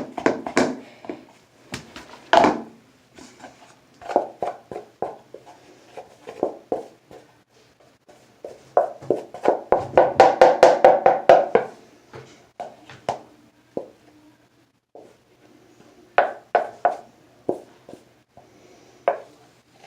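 Toothbrush stirring a thick cornstarch and shampoo slime mixture in a bowl: irregular tapping and scraping strokes, with a fast run of strokes in the middle.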